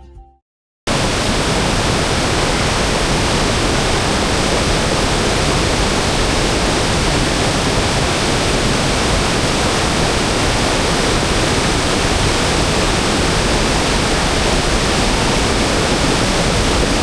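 Waterfall: loud, steady rushing water that starts abruptly about a second in, after a moment of silence.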